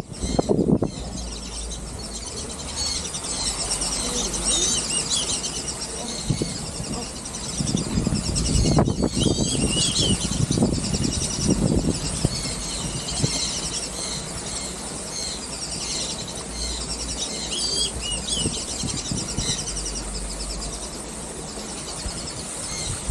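A flock of aviary birds chattering and calling, with many rapid, high-pitched squeaky calls overlapping throughout.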